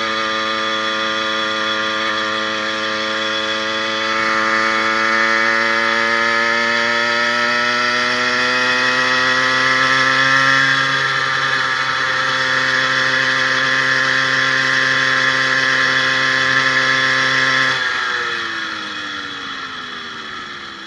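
80cc two-stroke motorized-bicycle engine running hard under load, its pitch climbing slowly as it picks up speed and then holding steady. Near the end the throttle comes off and the engine note falls away. It is running smoothly on its new wrist pin needle bearing and piston.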